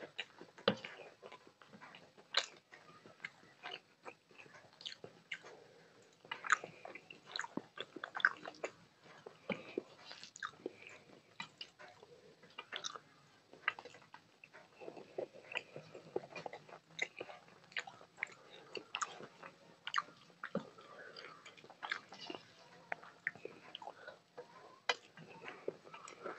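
Close-miked chewing and wet mouth sounds of a person eating by hand, irregular and continuous. Fingers mixing and squishing food against a steel plate are heard in between.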